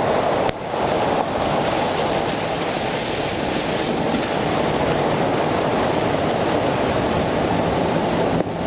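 Steady rushing of wind and wet road noise picked up by a bicycle-mounted camera while riding in the rain, with a brief dip about half a second in.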